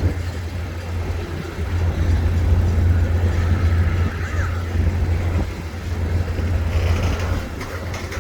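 Freight train rolling past, a steady low rumble of the passing cars, with a faint brief squeal about four seconds in.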